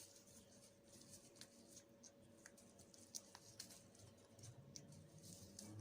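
Faint, irregular small clicks and crackles, typical of an African grey parrot's beak nibbling and tearing neem leaves, over a steady faint hum. A faint low voice-like sound comes in near the end.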